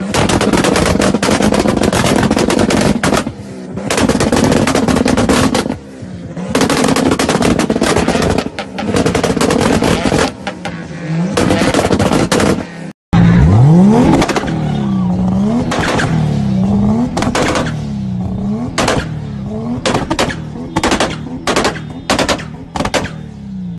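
Car exhaust popping and crackling in rapid machine-gun-like runs of bangs on throttle lift-off. About halfway through, after a brief cut, the engine is revved repeatedly, rising and falling, with pops following each rev and a string of single loud bangs near the end.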